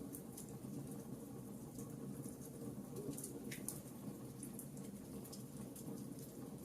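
Campfire burning: a steady low rustle of flames with scattered, irregular sharp crackles and pops from the burning wood.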